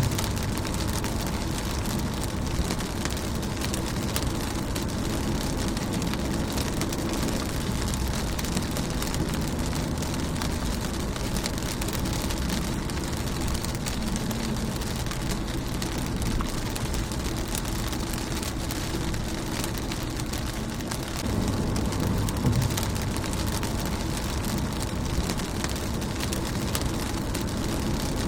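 Rain falling on a car's windshield: a steady dense patter of drops over a low rumble, swelling briefly louder about three-quarters of the way through.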